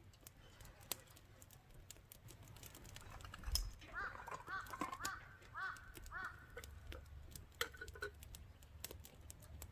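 Campfire wood crackling with scattered sharp pops. From about four seconds in to about eight, a bird gives a run of short, repeated calls.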